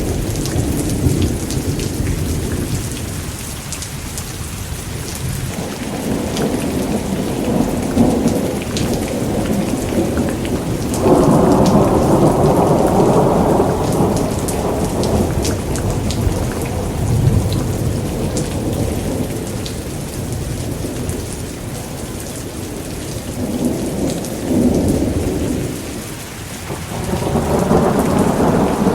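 Thunderstorm: steady heavy rain with thunder rumbling through it. A loud roll of thunder breaks in sharply about eleven seconds in and lasts several seconds, and another swells near the end.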